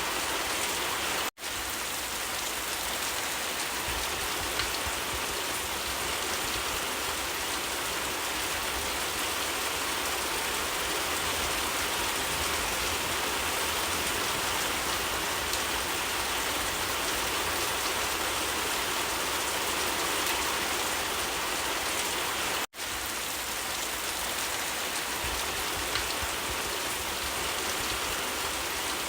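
Steady rain falling, an even hiss. It drops out for an instant twice, about a second in and about three quarters of the way through.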